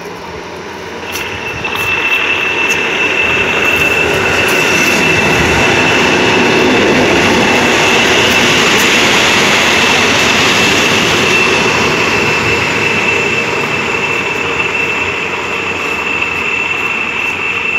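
PKP EN57AL electric multiple unit running past along the platform: the rumble of its wheels on the rails swells about two seconds in and stays loud as it passes close, with a steady high-pitched whine held over it.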